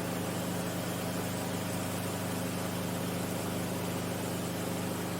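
Enstrom F28F piston helicopter's engine and rotor running in flight, a steady drone made of several even tones with no change in pitch or level.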